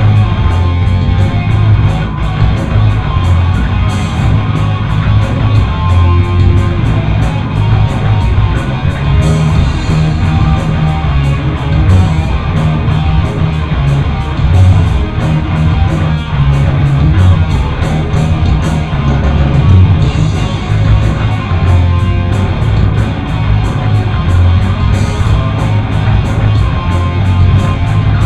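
Live heavy rock band playing loudly: electric guitar over bass and drums, with a steady run of cymbal hits.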